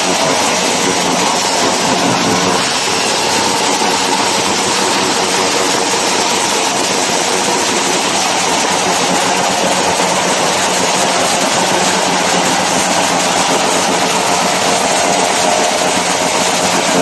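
Motorcycle engines held at high revs in a revving contest, a loud continuous engine sound whose pitch wavers slightly without letting up.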